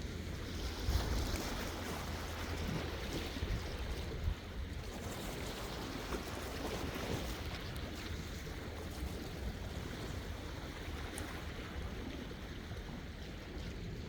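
Sea waves washing in and receding in slow swells, with wind rumbling on the microphone.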